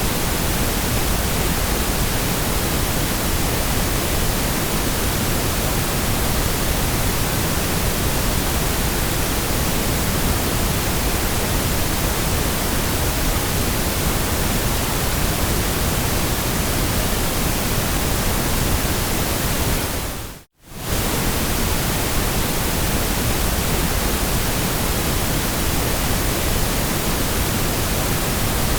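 Steady white noise, an even hiss spread across all pitches. About twenty seconds in it fades out for a moment and comes straight back.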